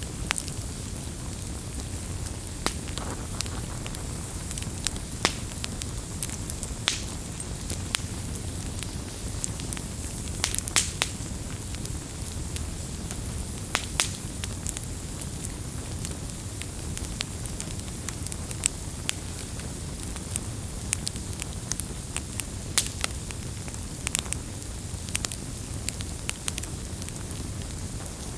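Wood campfire burning, with a steady low rumble of flame and frequent sharp crackles and pops at irregular intervals.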